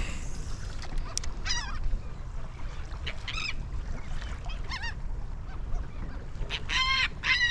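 Feeding seabirds calling over the water: short wavering cries every second or two, with two louder ones close together near the end, over a steady low rumble.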